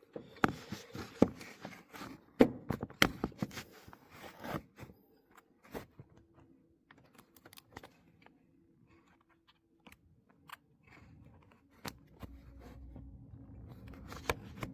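Irregular clicks, knocks and rattles of objects being handled up close, densest in the first five seconds and then sparse; a faint low steady hum comes in near the end.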